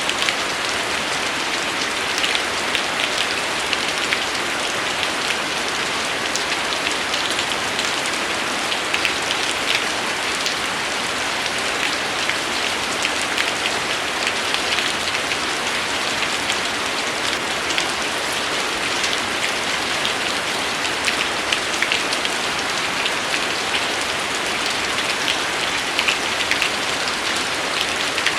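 Steady rain, with many sharp drop ticks scattered through it.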